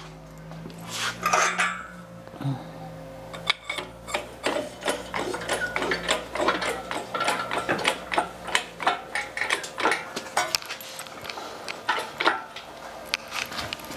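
Irregular metallic clicks, clinks and knocks of metal tools and machine parts being handled, several a second. A low steady hum runs under them and stops about nine seconds in.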